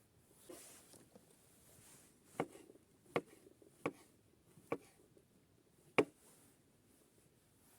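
Five sharp chopping knocks, spaced under a second apart at first, the last and loudest after a longer gap.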